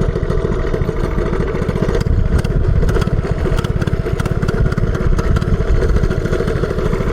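Minibike engine running steadily under way, a fast even beat of low firing pulses with little change in pitch.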